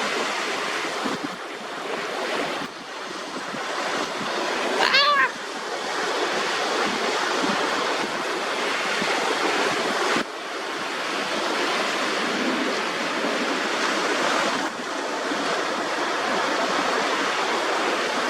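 Shallow sea water lapping and washing on a sandy shore close by, a steady rush, with wind on the microphone. About five seconds in, a brief wavering high-pitched call sounds over it.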